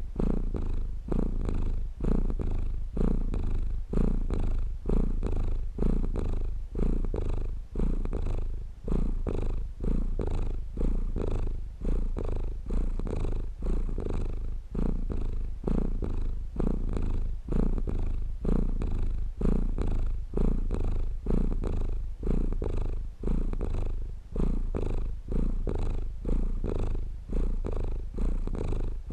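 Domestic cat purring steadily, swelling and easing with each breath about once a second.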